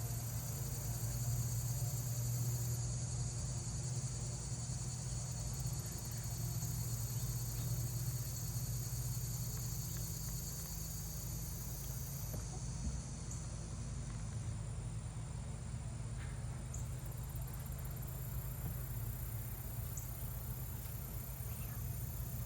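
Steady high chirring of insects, likely crickets, over a low steady hum; the chirring thins about two-thirds of the way in.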